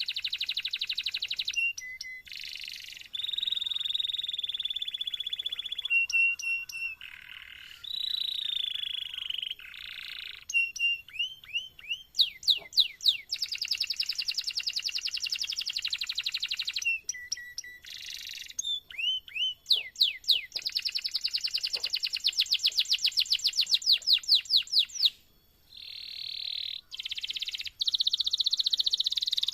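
Domestic canary singing a long continuous song: fast rolling trills and runs of repeated notes, including series of quick rising whistled sweeps, with one brief pause about 25 seconds in.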